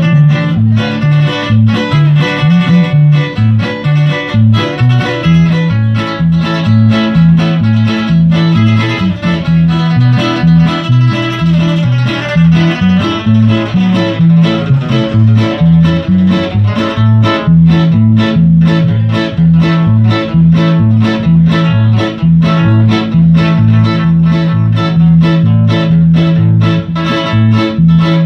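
Band music led by plucked guitar over a bass line that steps between a few low notes, with a steady beat.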